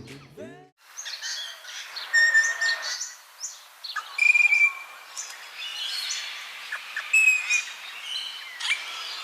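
Several birds chirping and whistling together, a busy chorus of short calls and trills at many pitches, after the last notes of a piece of music die away in the first second.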